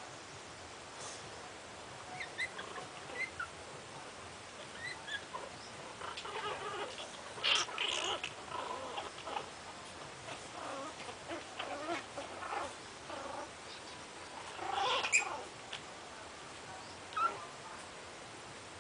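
Chihuahua puppies about five weeks old making scattered short, high squeaks and whimpers, with louder bursts about seven and a half and fifteen seconds in.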